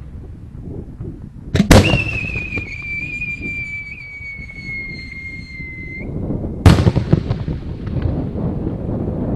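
Fireworks: a sharp boom, then a whistle for about four seconds that slowly falls in pitch and stops abruptly. A second boom follows about five seconds after the first, with rumbling and crackle after it.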